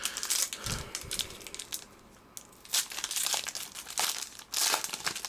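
Trading card pack wrapper crinkling and tearing as it is opened by hand, in several short spells of crackling.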